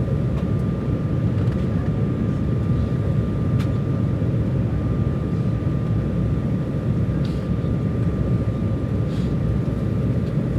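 Steady cabin noise of an Embraer 195 jet airliner in flight: a continuous low rumble of airflow and turbofan engines, with a faint steady high tone over it.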